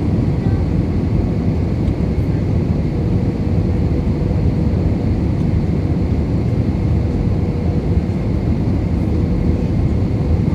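Airbus A320-200 cabin noise on final approach: a steady low rumble of airflow and its IAE V2500 engines, with a faint steady tone above it.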